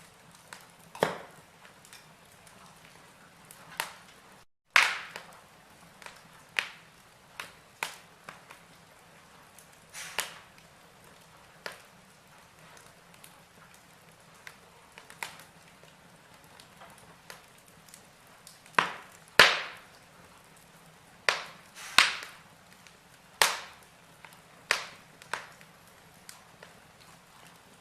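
Logs burning in a fireplace, crackling with irregular sharp pops and snaps over a faint steady hiss. The loudest snaps come about nineteen and twenty-two seconds in.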